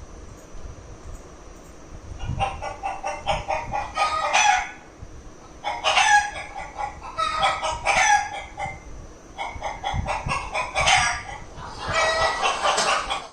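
A rooster crowing four times in a row, each crow lasting about two seconds.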